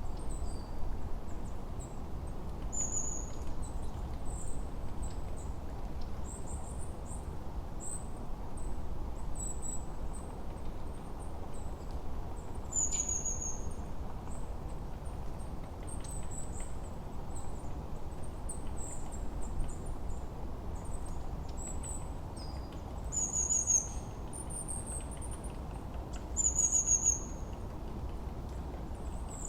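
Layered forest ambience: small birds giving short, high-pitched chirps and trills every few seconds over a steady low hiss of wind.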